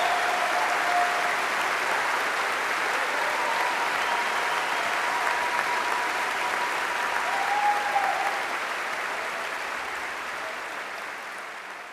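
Audience applauding after an orchestral performance, steady clapping that fades out near the end.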